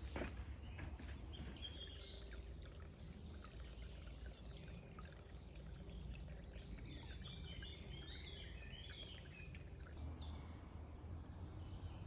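Several wild birds chirping and singing in quick, short phrases over a steady low rush of background noise.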